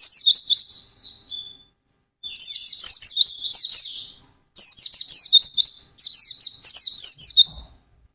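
White-eye (pleci) singing in fast runs of high, falling whistled notes, each run lasting one to two seconds with short breaks between.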